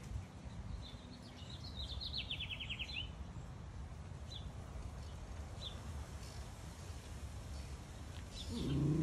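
A small songbird sings a quick descending trill about two seconds in, followed by a few short chirps, over a steady low outdoor background hum. Near the end a dog lets out a low, drawn-out vocalization, the loudest sound in the stretch.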